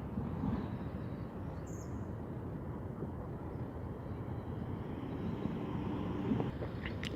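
Steady low outdoor background noise, with a few faint brief sounds and a short faint call near the end.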